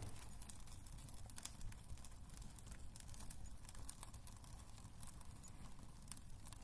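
Wood fire burning in a fireplace, with irregular sharp crackles and pops over a soft low rumble of the flames.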